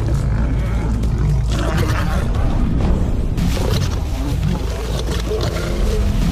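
Male lions roaring at each other in a confrontation, over dramatic background music.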